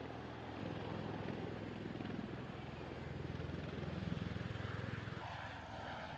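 V-22 Osprey tiltrotor's rotors and engines running with a steady low drone and a rapid pulsing beat. The low drone drops away about five seconds in, leaving a fainter hiss.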